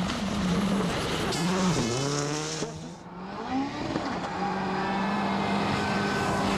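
A World Rally Car's turbocharged four-cylinder engine driven hard. Its pitch drops and climbs again about two seconds in, it goes briefly quieter as the throttle is lifted about three seconds in, and then it holds steady at high revs.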